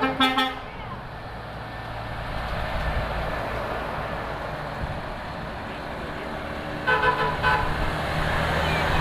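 Trucks running past in a convoy, with a short horn blast at the very start and a few quick horn toots about seven seconds in.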